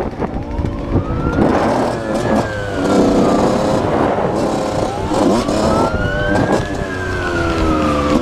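Emergency-vehicle siren on a wail cycle: the pitch rises slowly and then falls, twice, about four to five seconds apart, over steady vehicle engine and road noise.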